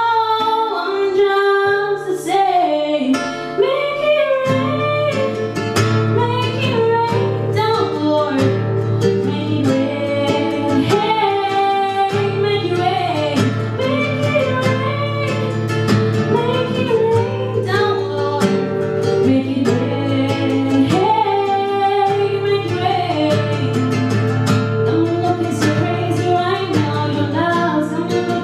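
A woman singing live with guitar accompaniment; the low end fills out about four seconds in.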